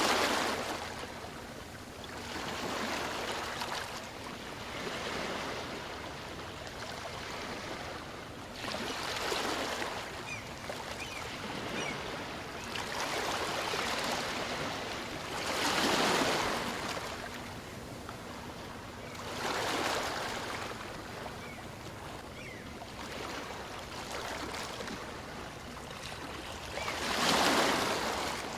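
Small waves from a calm sea washing in and drawing back on a beach. The wash swells and fades every few seconds, loudest about halfway through and again near the end.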